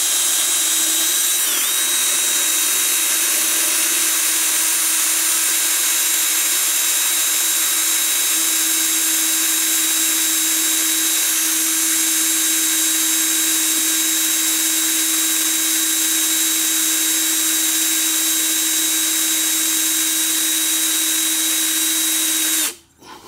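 Power drill turning a centre drill into a sheared exhaust manifold stud to start a pilot hole. It runs at a steady speed and stops abruptly near the end.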